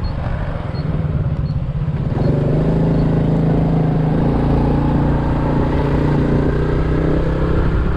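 Honda Super Cub's single-cylinder four-stroke engine running while the bike is ridden along the road, mixed with road and wind noise. About two seconds in, the engine note settles into a steady, even pitch.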